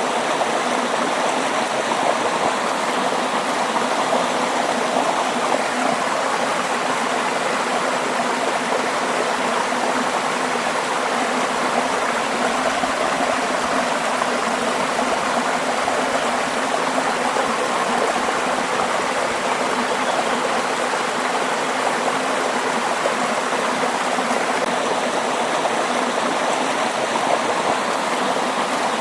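Waterfall: falling water splashing in a steady, even rush without pause.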